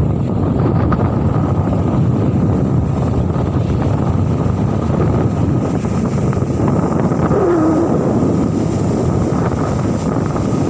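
Steady wind buffeting the microphone, a loud, even low rumble with no breaks.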